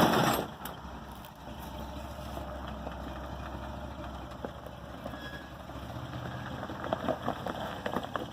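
Off-road vehicle's engine running at a low idle-like rumble, with a brief loud rush of noise at the very start and scattered crackling clicks about seven seconds in.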